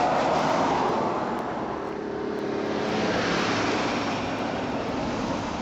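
Steady wind and road noise from a moving vehicle, starting abruptly as the recording cuts in.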